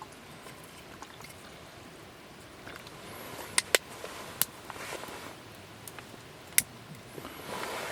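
Wood fire crackling, with a few sharp pops standing out over a steady hiss and a swell of rustling noise near the end.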